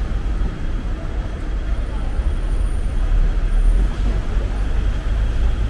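City street traffic: a steady low rumble of buses and cars, with passers-by talking in the background.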